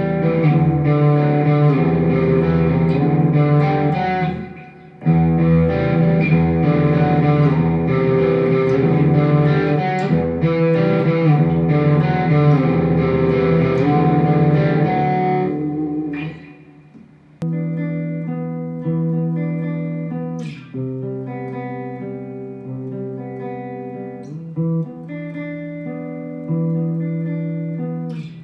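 Electric guitar played through a Mooer GE100 Pro multi-effects unit: a dense passage of thick, distorted chords for about sixteen seconds, with a short break near the start. After a pause about three-quarters of the way in, it turns to a cleaner tone with separate, ringing picked notes.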